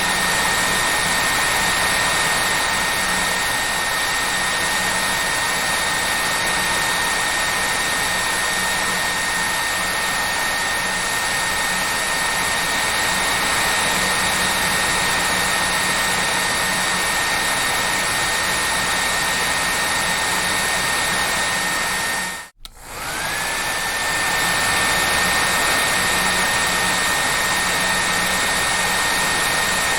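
Hair dryer running steadily: an even rushing blow with a high motor whine. About three-quarters of the way through it cuts out for a moment and comes back, the whine rising back up to pitch.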